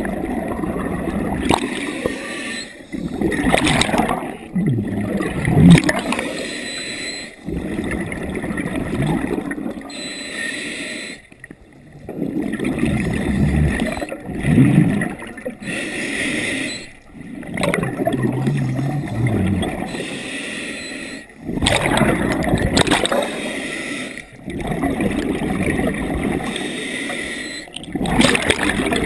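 Scuba diver's regulator breathing underwater: bubbling, gurgling exhalations and rushing inhalations, repeating in cycles of a few seconds with brief pauses between them.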